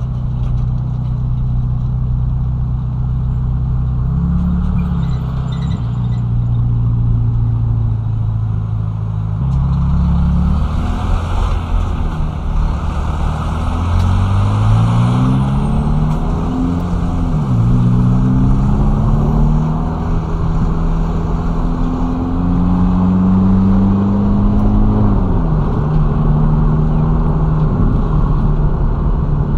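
Ferrari Roma's twin-turbo V8 in low-speed driving, mostly running steadily at low revs. Twice, about halfway through and again near the end, it revs up with a rising pitch that drops suddenly at an upshift.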